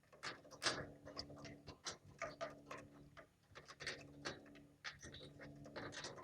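Lovebirds pecking and cracking seeds, a run of short, irregular clicks several times a second, over a steady low hum.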